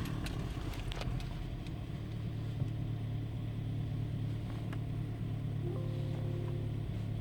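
1.6 L turbocharged direct-injection four-cylinder engine of a 2013 Ford Escape starting and then idling steadily. The engine has a misfire, located by the scan tool's misfire test in cylinder 2.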